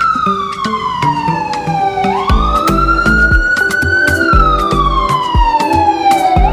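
A siren wailing, its pitch sliding slowly down and then back up in a cycle of about four seconds, over music with a steady beat; a heavy bass beat comes in about two seconds in.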